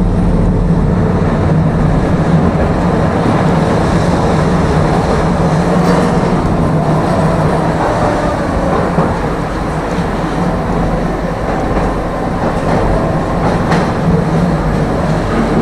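Tram running along its track: a steady low hum under continuous rumbling wheel-on-rail noise, with an occasional faint click.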